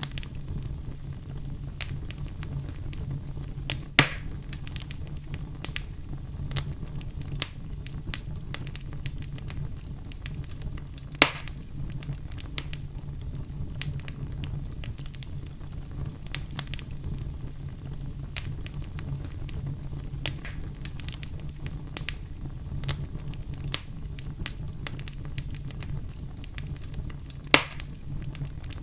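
Wood fire burning in a fireplace, with a steady low rumble and constant soft crackling; three louder pops stand out, about 4 s in, 11 s in and near the end.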